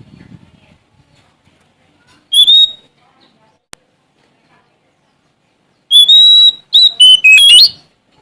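Oriental magpie-robin (Sumatran kacer) singing loud clear whistles: one short phrase about two seconds in, then a longer run of several notes that step up and down in pitch near the end. A single sharp click sounds in between.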